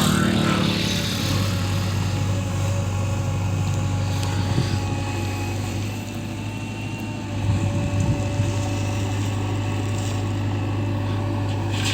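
Heavy diesel engine of earth-moving machinery running steadily. It eases off about six seconds in and picks up again about a second and a half later.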